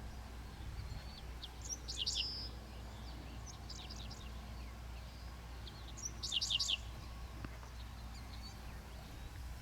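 Small birds chirping: a few quick high chirps about two seconds in, and a fast run of four chirps around six seconds in. Beneath them is a steady low hum.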